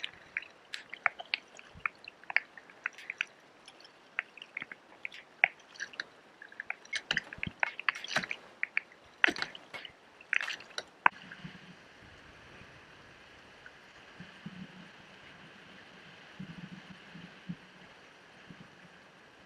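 Small wet squishes, drips and sharp clicks close by, with water being wiped up from inside a kayak. They stop suddenly about eleven seconds in, leaving a steady faint hiss.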